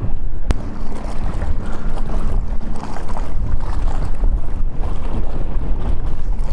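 Strong wind buffeting the microphone on an open boat, a heavy low rumble. A sharp click about half a second in, followed by a faint steady hum for a couple of seconds.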